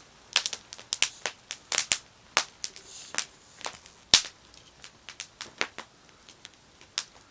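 Campfire crackling: burning wood popping and snapping in sharp, irregular cracks, a few a second, with one loud snap a little after four seconds in.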